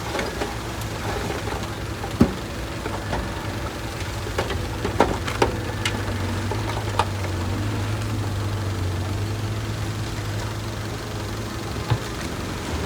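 Diesel engine of heavy earthmoving machinery running steadily at low revs, with a few sharp knocks, the loudest about two seconds in and a pair around five seconds.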